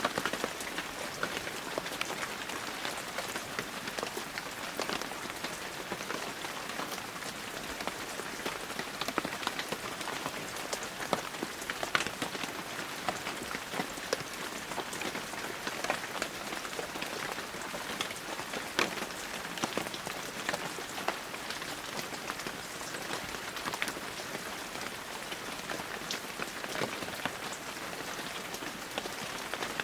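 Heavy rain falling steadily, a dense hiss of rain with many close individual drops pattering sharply on surfaces.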